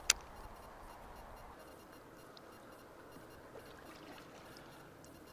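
Faint, steady river-water ambience around a kayak on the water, with one sharp click right at the start.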